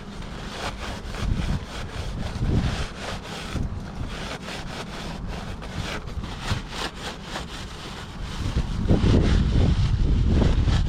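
Paper towel rubbing and wiping excess chain lube off a motorcycle chain and sprocket in short, irregular strokes. Wind buffets the microphone throughout and rumbles much louder near the end.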